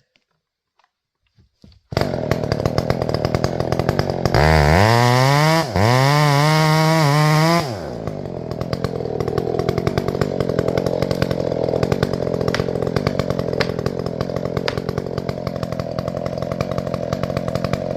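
Two-stroke chainsaw starting up loud about two seconds in, revved twice up to full throttle with a brief drop between, then running on at a lower, wavering pitch.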